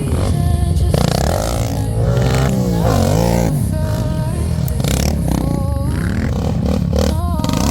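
Quad (ATV) engine running while riding, its pitch rising and falling repeatedly as the throttle is worked.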